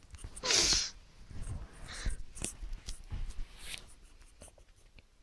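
A dog snoring in its sleep: three or four noisy breaths, the loudest about half a second in, then weaker ones that fade out after about four seconds.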